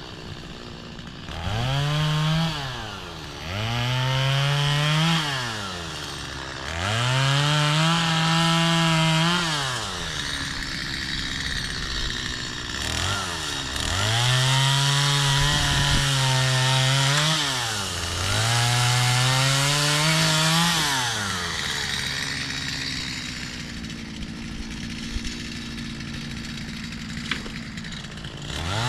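Gas chainsaw revving up to full speed and back down about six times as it cuts crepe myrtle branches, then settling to a lower idle for the last several seconds before revving up again at the very end.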